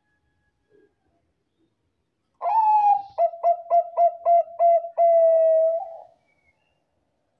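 Zebra dove (perkutut, Bangkok song strain) singing one phrase: a long opening coo, a quick run of about seven short staccato coos, then a long held closing coo.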